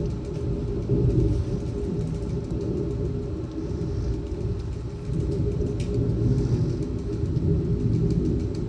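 Severe thunderstorm wind gusting, a heavy low rumble that swells and eases, with one sharp tick about six seconds in.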